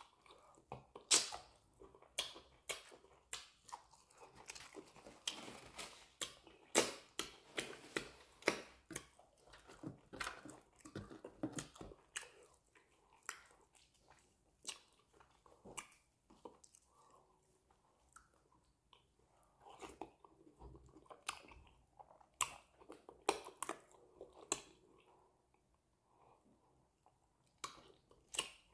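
Close-up eating sounds of a man chewing a mouthful of amala and fish: wet lip smacks and mouth clicks in quick runs, thinning out with a short lull near the end.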